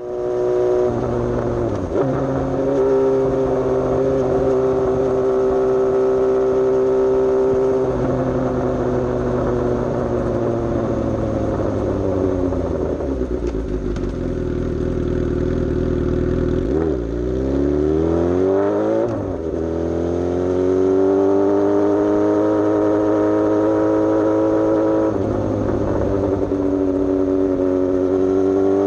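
Suzuki GSX-S750's inline-four engine heard through a Coffman's aftermarket exhaust while riding, holding steady revs at first. Near the middle it slows with the pitch falling, then two quick rising revs follow as it accelerates again, and it settles back to a steady cruise.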